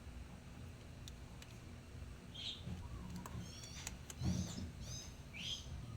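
Small birds chirping several times, a quick run of chirps about three and a half seconds in. Under them are a few faint clicks and a dull knock about four seconds in.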